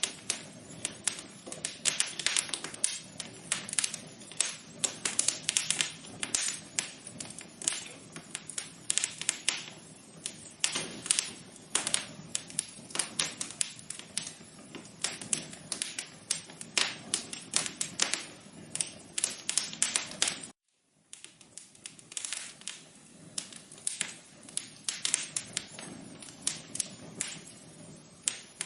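Wood fire crackling in an outdoor fireplace: dense, irregular pops and snaps over a faint hiss. The sound drops out completely for about half a second about twenty seconds in.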